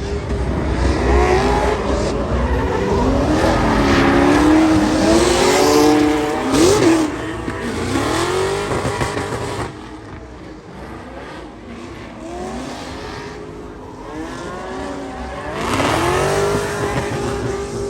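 Car engines revving hard, their pitch rising and falling repeatedly, with some tyre squeal. Near the end one engine climbs and holds at a steady high rev.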